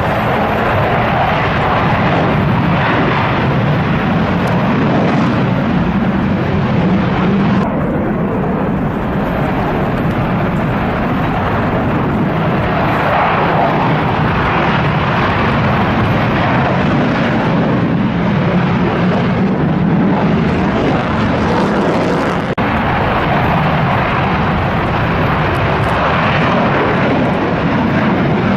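Loud, steady jet noise from twin-engine F-15 fighter jets, swelling and easing slowly throughout.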